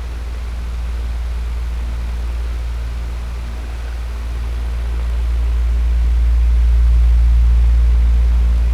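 Electric fan running steadily: a low motor hum under an even rush of air. It swells a little louder for a few seconds near the end.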